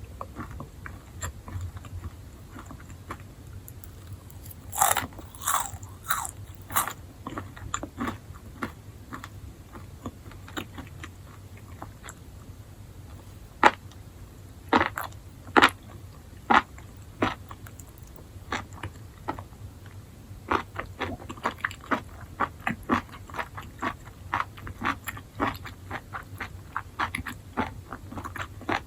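Enoki mushrooms being bitten and chewed: crisp crunching bites come in clusters, loudest about five to seven seconds in and again around fourteen to seventeen seconds, then a quicker run of chewing crunches near the end, over a low steady hum.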